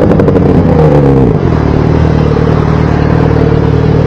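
Yamaha XJ6 motorcycle's inline-four engine through a loud exhaust, its revs falling twice and then holding steady at a lower pitch. The sound cuts off suddenly at the end.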